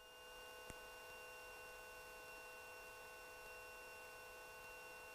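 Near silence: a faint steady electrical hum and hiss with a few thin constant tones, and one faint click under a second in.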